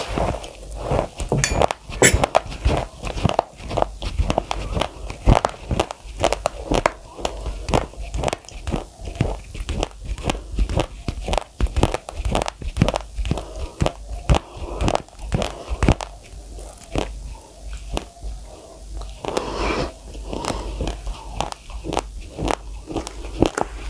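Close-miked chewing of a full mouthful of raw, uncooked rice: the hard grains crack and crunch in a steady run of sharp crunches, about two or three a second.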